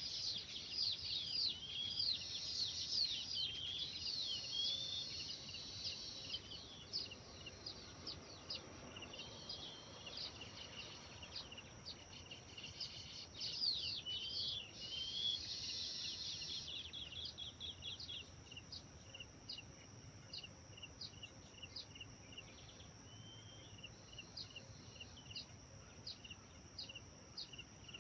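Several birds singing and chirping at once, busy and overlapping for the first half. They thin out to a steady run of short, evenly repeated chirps in the second half.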